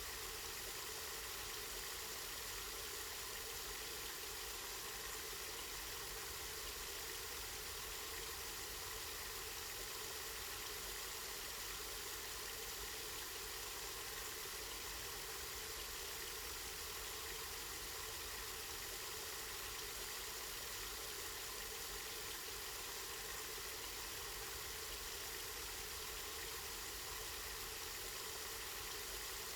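Water from a spring running and splashing steadily, an even, unbroken rush.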